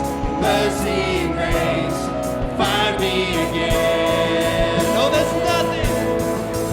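Live contemporary worship music: a band playing with voices singing together, held notes between phrases.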